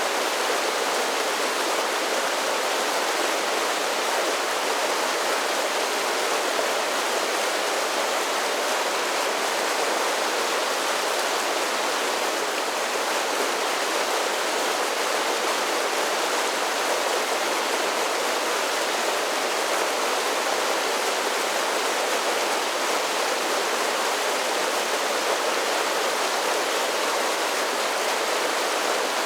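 Mountain creek pouring down a series of small waterfalls: a steady, even rush of water with no lulls and little deep rumble.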